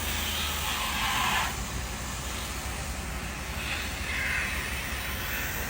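Street traffic noise: a steady hum of road traffic, with vehicles swelling past about a second in and again near the four-second mark.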